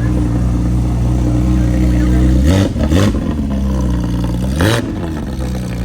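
Car engine idling with a low, steady note, revved in short throttle blips: twice in quick succession about two and a half seconds in, then once more near the end.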